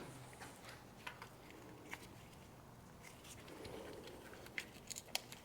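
Faint, scattered light clicks and taps of a battery cable clamp being handled and fitted onto the tractor battery's positive post, with a few sharper clicks near the end.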